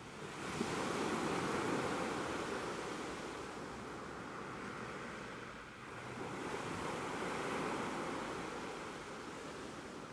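Ocean waves washing in, two swells of surf: one breaking near the start and a second about six seconds in, each hissing and then slowly fading.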